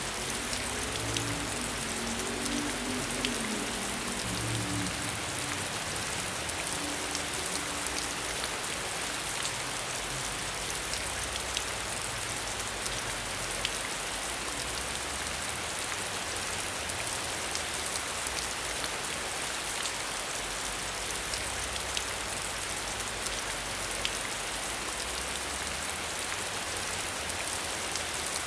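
Steady rain falling, heard from behind a window, with fine ticks of individual drops throughout.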